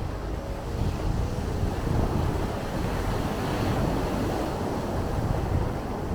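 Sea waves washing in, one wash swelling and fading across the middle, over a low rumble of wind buffeting the microphone.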